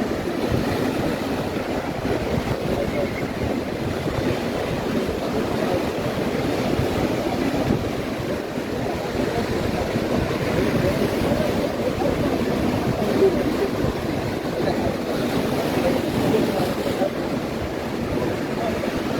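Atlantic surf breaking and washing up the beach in a steady rush of noise, with wind on the microphone.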